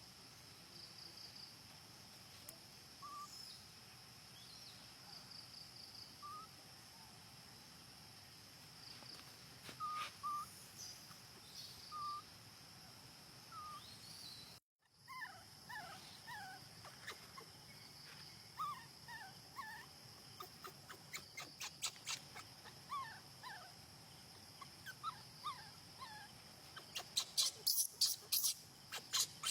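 Baby monkey squeaking: short, high calls that rise or fall in pitch, a few at first, then many in quick succession after a brief break halfway through. A quick run of loud clicks or taps comes near the end.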